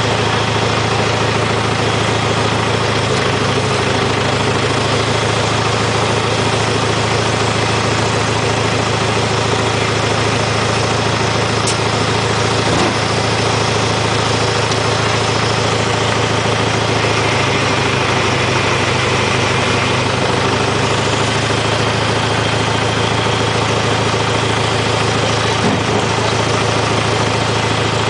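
IHC tractor engine running steadily at idle, its low throb unchanging in pitch and level.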